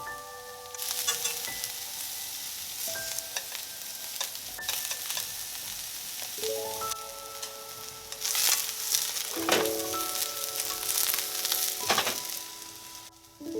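Eggplant frying in sesame and vegetable oil, a steady sizzle that swells louder several times, most strongly a little past halfway. Soft background music with held notes plays along.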